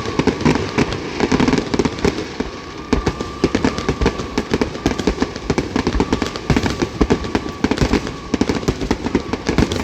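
Fireworks grand finale: a rapid, unbroken barrage of bangs and crackles, many shells bursting at once.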